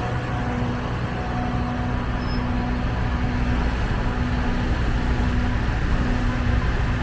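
Motorcycle engine running steadily while riding in city traffic, with road and traffic noise. The engine hum holds a tone that breaks off briefly every second or so.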